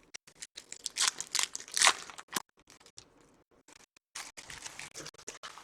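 Foil wrapper of a Topps Chrome baseball card pack being torn open and crinkled, the loudest rips about one to two seconds in, then softer crinkling.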